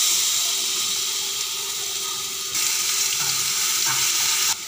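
Ginger-garlic paste sizzling in hot oil with roasted cumin seeds: a steady hiss that starts suddenly, grows a little louder about halfway through and cuts off just before the end.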